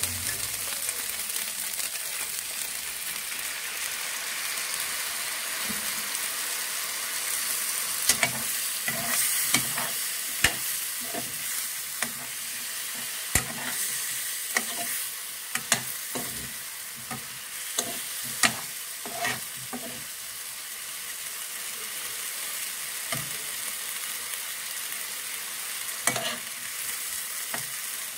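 Chicken drumsticks and potato pieces sizzling steadily in a nonstick frying pan, while a metal spoon stirs them. The spoon clicks and knocks against the pan in a flurry of sharp taps from about eight to twenty seconds in, then a couple more near the end.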